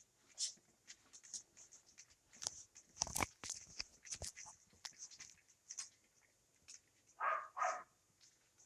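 Young puppies eating meat: scattered small chewing and smacking clicks, a few louder knocks around three to four seconds in, and two short puppy vocal sounds about seven seconds in.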